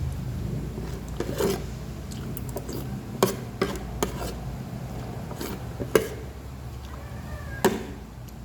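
Spoon clinking against a dish about six times while eating, over a steady low hum.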